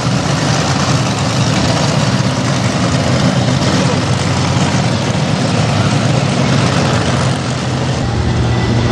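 A heavy vehicle engine running steadily at idle, loud and continuous. Its low note grows steadier about eight seconds in.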